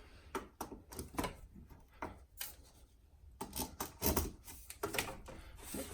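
Irregular light knocks, clicks and rubbing, as PEX tubing and plastic fittings are handled and fitted together, with a brief lull about two and a half seconds in.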